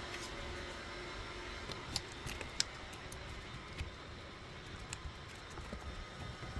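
A few light, sharp clicks and taps, the strongest about two seconds in, over a steady low background hum.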